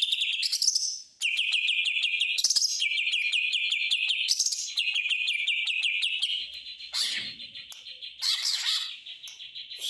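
Greater green leafbird (cucak hijau) singing a mimicked song, mostly long chattering phrases of rapid repeated notes like a sewing machine running, three in a row, followed by shorter, varied calls near the end.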